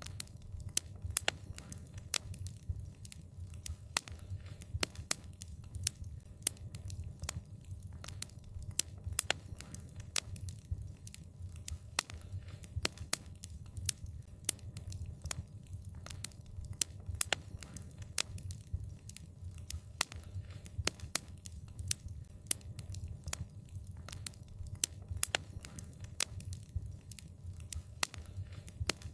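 Wood fire crackling, with frequent sharp, irregular pops over a steady low rumble of the flames.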